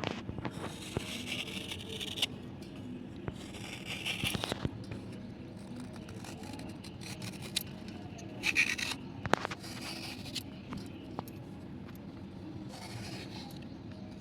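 Slate pencil sticks being scraped clean: several scraping strokes of a second or two each, with small clicks and taps between them.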